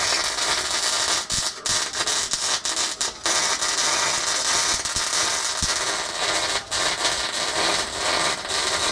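Wire-feed welder arc crackling and sizzling steadily through a long weld run, broken by a few short pauses, after the heat was turned up to a setting of 17.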